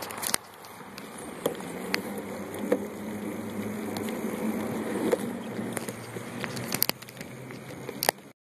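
Bicycle rolling down a trail: a steady rushing noise with scattered clicks and rattles, cutting off suddenly near the end.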